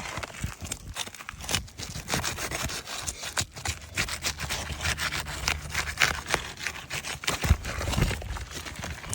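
Metal shingle-removal tool scraping and rasping against old asphalt 3-tab shingles, in a run of irregular strokes with sharp knocks between them.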